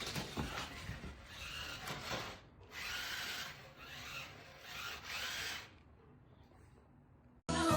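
A run of rasping, scratching strokes, each under a second long and separated by short gaps, that stop about two-thirds of the way through. Near the end, music cuts in suddenly.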